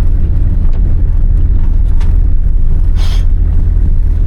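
Steady low rumble of a 1993 Toyota Corolla's 2.0 diesel engine running at low speed, heard from inside the cabin. A short, sharper noise comes about three seconds in.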